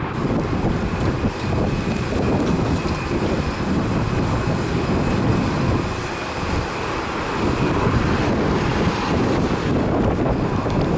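Jet airliner engines running, a loud low rumble with a faint steady high whine, mixed with gusty wind buffeting the microphone.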